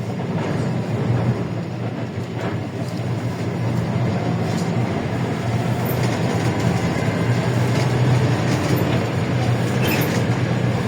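LiAZ-677M bus under way, heard from inside the cabin: the steady drone of its V8 engine with road noise, and a few short rattles.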